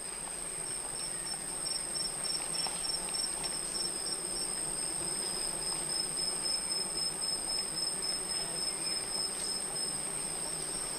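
Tropical rainforest insect chorus: a steady high-pitched whine with a pulsing high trill beneath it, over a faint even background hum.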